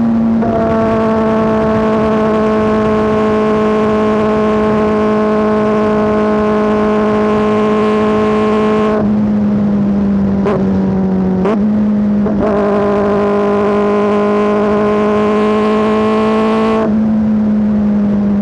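Kawasaki ZX-4RR inline-four engine through an SC-Project S1 exhaust, running loud at steady, fairly high revs. The revs briefly drop and sweep back up a few times about halfway through, and again once near the end.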